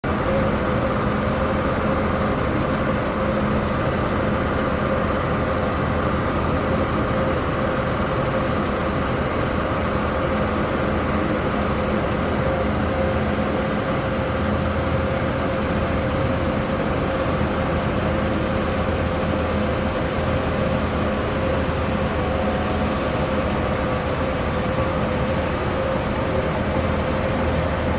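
Cat 299D compact track loader's diesel engine running steadily while it grades with a laser grader blade. A steady whine sits over the engine drone.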